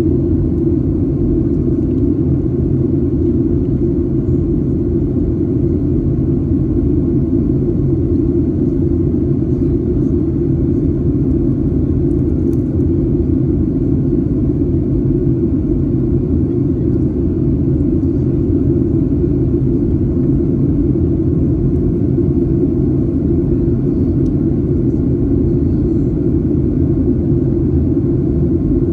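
Airliner cabin noise in flight: a steady, loud low rumble of engines and airflow, unchanging throughout.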